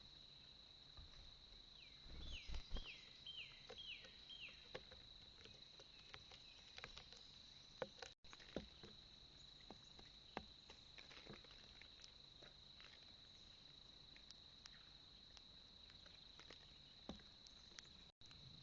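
Faint outdoor sound at a bird feeder: a steady high insect drone, a bird calling a quick run of about five falling notes about two seconds in, and scattered light ticks and taps on the feeder platform.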